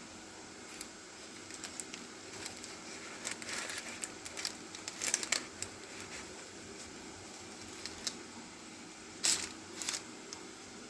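Scattered light clicks and short crinkling rustles of something being handled, over a steady faint hiss; the loudest rustles come about halfway through and again near the end.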